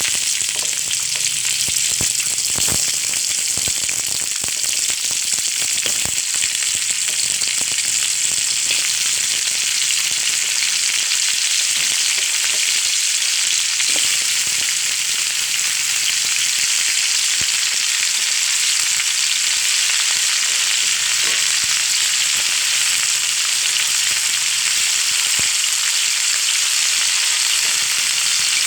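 Chicken frying in hot oil: a loud, steady sizzle with scattered sharp pops and crackles.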